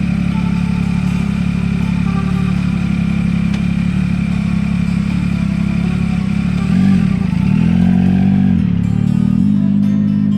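Motorcycle engine running steadily under way, then its pitch rises and falls a few times about two-thirds of the way in as the revs change through gear shifts.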